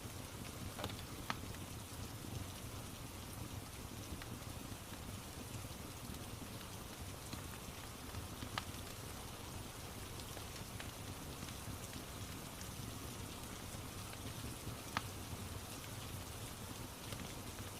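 Steady rain with a few sharp crackles and pops from a wood fire scattered through it.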